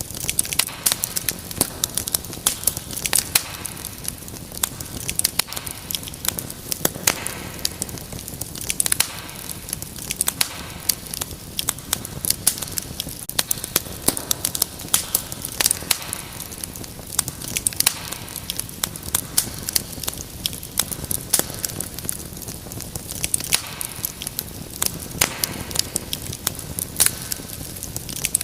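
Wood fire crackling steadily: many irregular sharp pops and snaps over a soft hiss.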